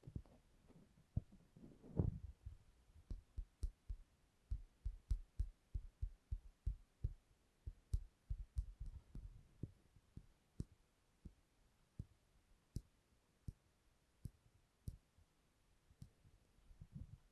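Ear-cleaning tools working on an ear microphone: soft, irregular low thuds and taps, two or three a second, with a few faint high clicks.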